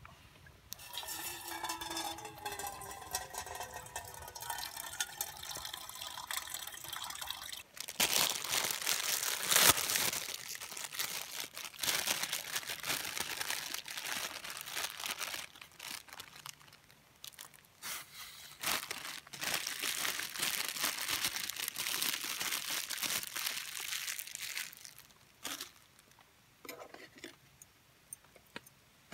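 Liquid pouring into a container for about seven seconds, its pitch gliding as it fills. This is followed by long spells of crinkling, crunching handling noise with short pauses.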